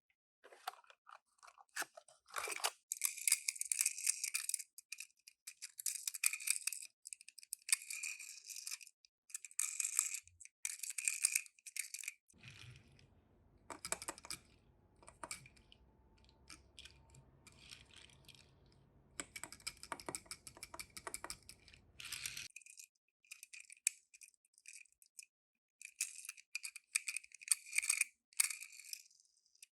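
Toy packaging being opened and handled, crinkling and tearing in irregular bursts with short pauses, including a longer pause a little after the middle.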